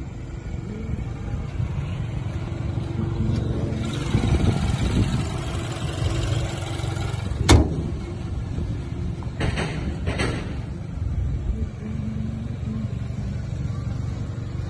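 BMW 320i's four-cylinder engine idling with a steady low hum, with one sharp click about halfway through.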